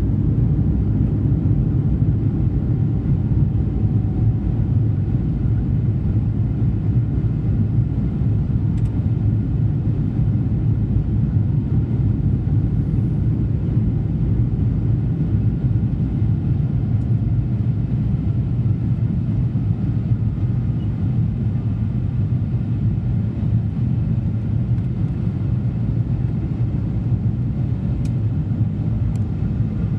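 Jet airliner climbing after takeoff, heard from inside the cabin: a steady low rumble of engines and airflow, with faint steady whining tones above it.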